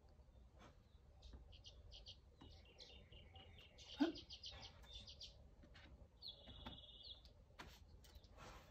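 Small birds chirping faintly in quick runs of notes, with one short trill a little after six seconds in. A brief, louder sound cuts in about four seconds in.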